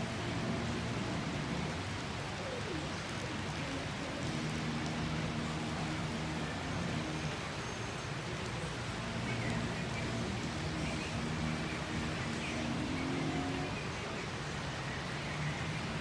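Steady rain falling, over a low, steady hum, with a few faint high chirps about the middle and near the end.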